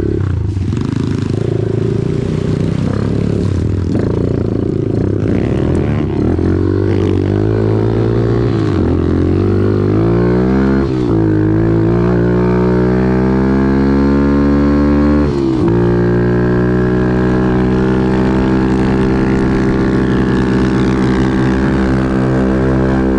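Off-road vehicle engine running hard, its pitch climbing steadily from about halfway through, dropping sharply once about fifteen seconds in, then climbing again.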